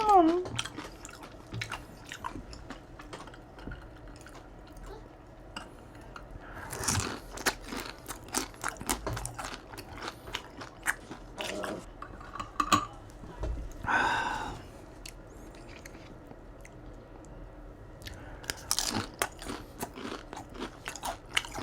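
Close-miked chewing and crunching of Chinese takeout food, with many irregular crisp crackles as it is bitten and chewed.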